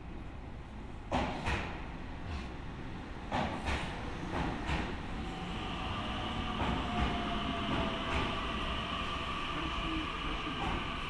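Inside a standing Keio 1000-series commuter train: a few sharp knocks in the first five seconds, then from about five seconds in a steady high-pitched whine with several tones over a low rumble.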